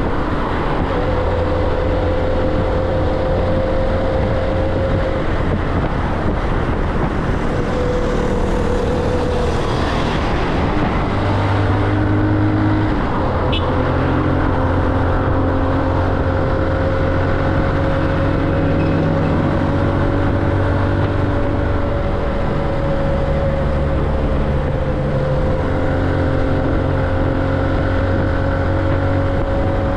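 Motorcycle engine running hard under way, heard from on the bike, its note breaking and shifting a few times in the first half and then holding fairly steady.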